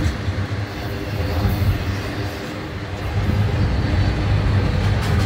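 Freight train of enclosed autorack cars rolling past, the steel wheels rumbling steadily on the rails. The rumble eases slightly a couple of seconds in, then grows louder again about three seconds in.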